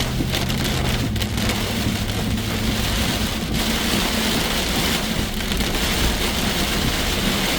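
Rain falling on a moving car, heard from inside the cabin, over the steady low hum of the engine and road noise.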